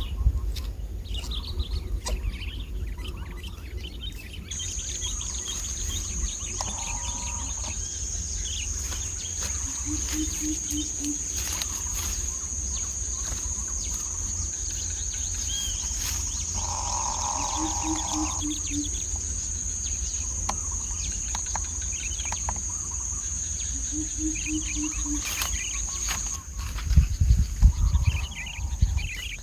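Outdoor ambience: an insect's steady high-pitched drone starts a few seconds in and stops near the end. A low hooting call of about five quick notes comes three times, about seven seconds apart, in the manner of a coucal's deep hoots. Wind rumbles on the microphone throughout, with a few loud knocks near the end.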